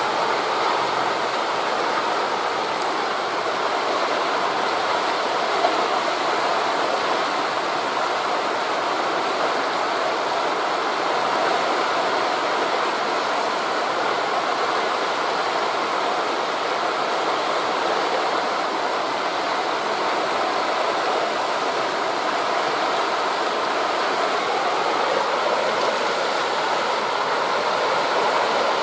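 Steady, even rushing of sea waves on a beach blended with wind through forest leaves.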